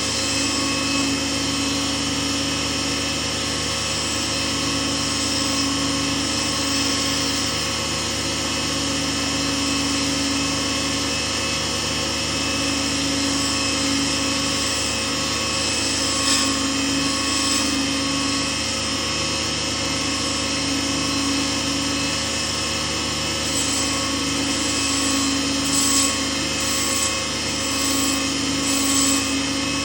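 Lathe motor running steadily with a constant hum, with a few brief sharp sounds in the second half.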